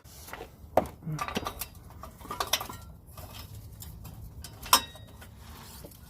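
Metal tools and parts clinking and clanking in a scatter of separate sharp knocks, the loudest about a second in and again near five seconds.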